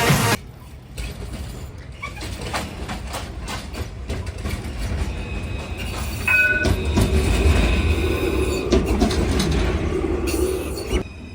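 Melbourne C-class tram rolling in, its wheels clicking over the rail joints, with a brief high squeal about six seconds in and a louder running hum in the second half. Music cuts off just as it begins.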